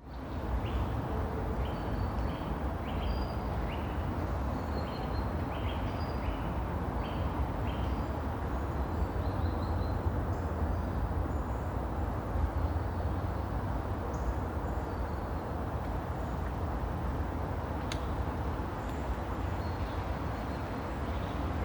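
Outdoor ambience with birds chirping: a run of short repeated chirps in the first eight seconds, then scattered higher whistles, over a steady low rumble.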